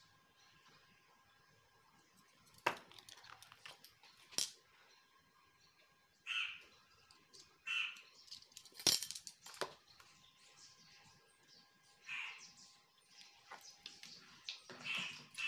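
A bird calling four times, short calls a few seconds apart, with scattered sharp clicks of a metal spoon against the plate as spices are sprinkled.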